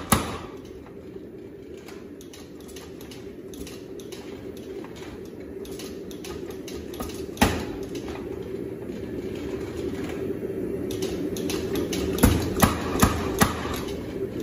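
A steady forge noise that slowly grows louder while the bar heats, broken by a single hammer blow on steel about seven seconds in and a quick run of four hammer strikes near the end.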